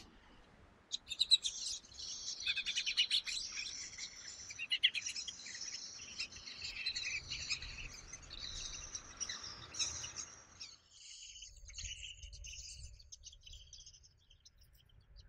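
Eurasian jay nestlings begging for food with rapid, high-pitched chirping while a parent feeds them at the nest. The chirping starts about a second in and thins out after about ten seconds.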